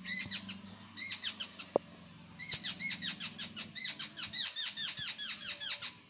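Jungle babbler calling: rapid strings of short, high notes, each rising then falling in pitch, about five a second. They come in three runs, the last and longest lasting about three and a half seconds and stopping suddenly near the end.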